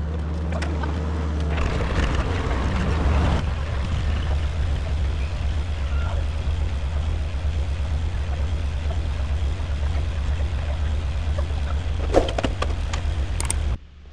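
Vehicle engine running steadily with a low rumble and a fast even pulse. It has a couple of sharp knocks near the end and cuts off suddenly.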